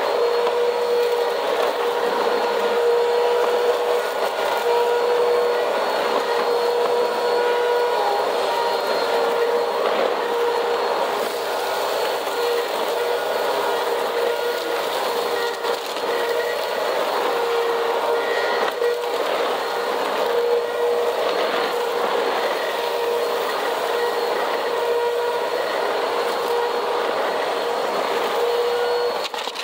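Vacuum cleaner running steadily on a cement floor, its motor holding one constant whine under a rough, crackly noise of grit and debris being sucked up.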